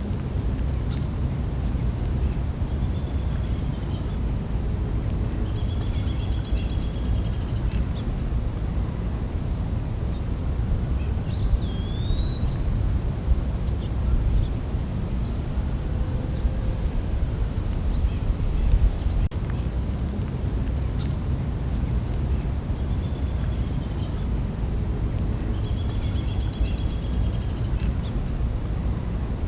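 Night forest ambience: a steady high insect drone with crickets chirping in quick, regular pulses. Short arching calls come in twice, about 3 s and 24 s in, and a brief gliding call about 12 s in, over a low steady rumble.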